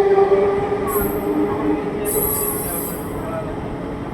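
Electric suburban local train (EMU) running on the rails, with a high-pitched wheel squeal about one second in and a longer one about two seconds in, while the overall running sound slowly fades.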